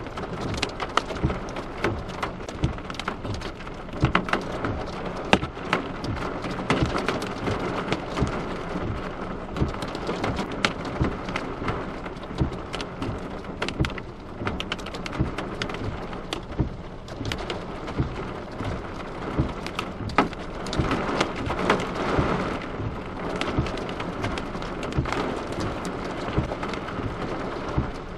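Hail and heavy rain pelting a car: a dense, irregular patter of sharp hits over a steady rush of rain, swelling louder about twenty seconds in.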